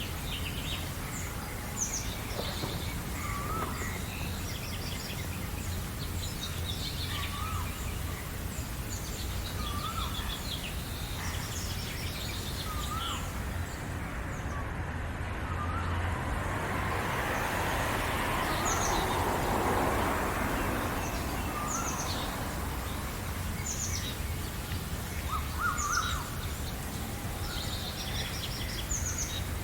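Several birds singing in a spring morning chorus: one repeats a short warbled call every few seconds over higher quick chirps from others. A rushing noise swells and fades around the middle, over a steady low hum.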